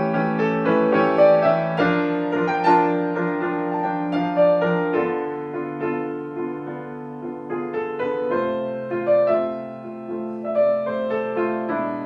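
Solo piano playing a slow, gentle prelude, with held bass notes under a flowing melody and chords.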